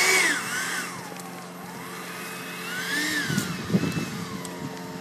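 Whine of an electric ducted-fan model jet in flight, its pitch rising and falling a couple of times as it passes and changes throttle. A brief patch of low knocking and crackle comes about three seconds in.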